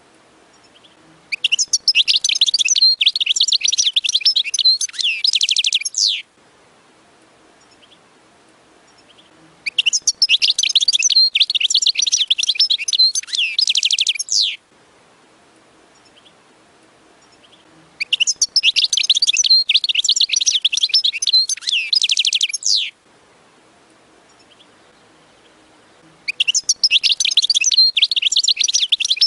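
European goldfinch singing: bouts of rapid, high twittering and trills of about five seconds each, with gaps of a few seconds between them, four bouts in all, the last one starting near the end.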